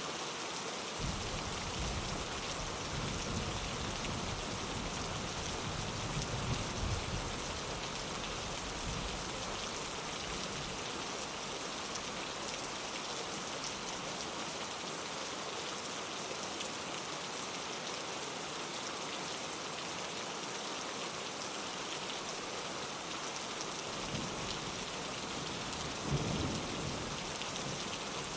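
Steady rain falling on a window glass, an even hiss throughout. Low rolls of thunder rumble in about a second in and carry on for several seconds, and rumble again near the end.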